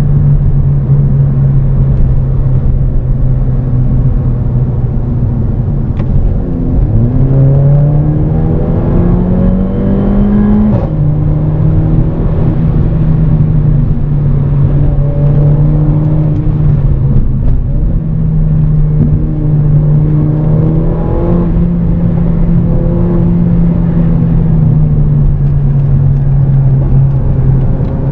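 Mercedes CLA 45 AMG's turbocharged 2.0-litre four-cylinder engine and exhaust running steadily at cruise over road noise. About seven seconds in the engine note rises under acceleration, then drops back sharply near eleven seconds and settles again.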